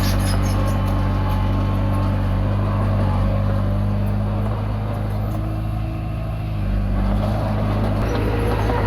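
Komatsu D20P bulldozer's diesel engine running steadily, with light metallic clinks near the start. The engine note drops slightly about six seconds in and picks back up a second later.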